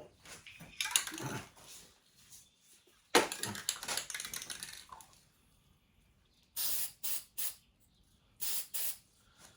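Aerosol can of high-heat spray paint spraying in bursts: a longer spray about three seconds in, then several short spurts near the end, touching up spots the first coat missed.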